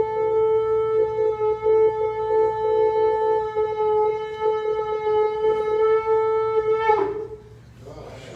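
A shofar sounding one long, steady blast for about seven seconds, a single held note with a slight waver. Near the end the note breaks off and falls away into a quieter, rough breathy sound.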